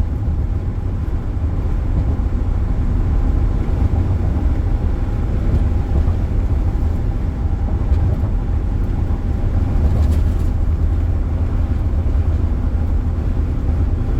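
Steady low rumble of road and engine noise inside a car driving at speed.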